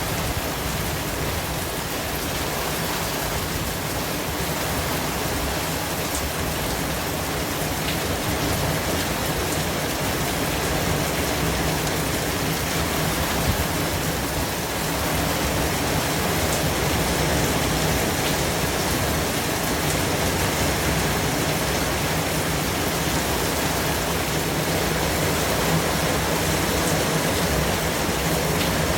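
Steady white noise, an even hiss spread across all pitches, with a few faint ticks.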